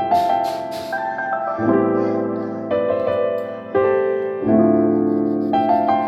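Background music: piano playing slow, sustained chords that change about once a second.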